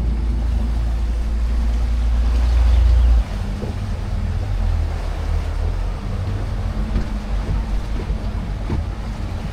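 Boat engine running steadily, louder for about the first three seconds and then dropping suddenly to a lower level as it eases off.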